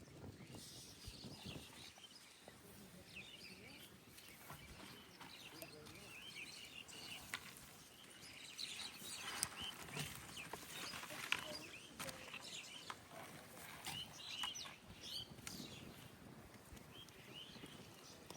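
Small birds chirping over and over in short calls, with a few sharp clicks or knocks scattered through.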